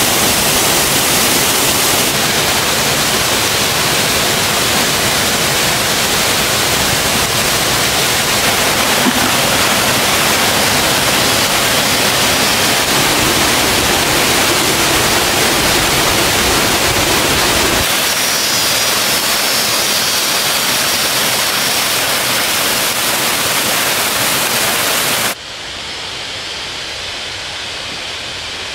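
Rushing water of a mountain stream or waterfall: a loud, steady hiss. It changes abruptly a couple of times and falls sharply quieter near the end.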